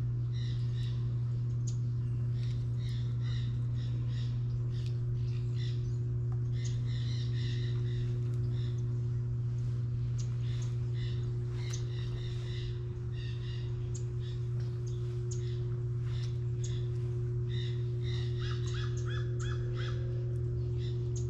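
Crows cawing repeatedly in scattered bursts, over a steady low hum.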